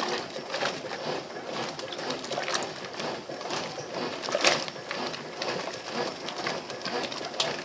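Brastemp BWL07A 7 kg top-loading washing machine agitating a load in heavily soaped water: a continuous churning and sloshing with sharp clicks, the loudest about four and a half seconds in and another near the end.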